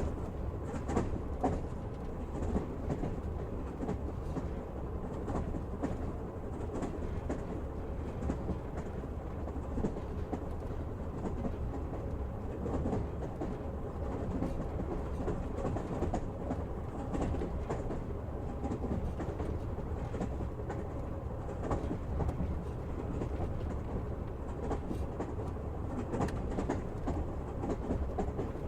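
Passenger train running at speed: a steady rumble of the carriage, with the wheels clicking over rail joints now and then.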